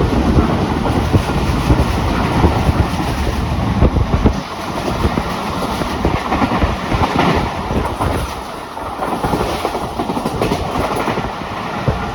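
Pakistan Express passenger train running along the track, its wheels clattering over the rail joints above a steady rumble. The deep rumble eases about four seconds in.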